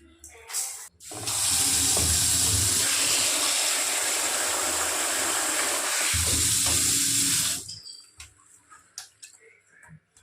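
Water running steadily from a tap, starting about a second in and shutting off after about six seconds, followed by a few faint knocks.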